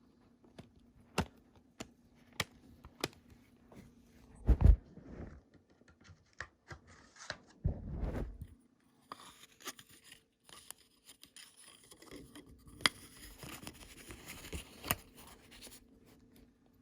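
Hands handling a CD case and its packaging: a few sharp clicks about every half second, two dull thumps, then a stretch of rustling and scraping.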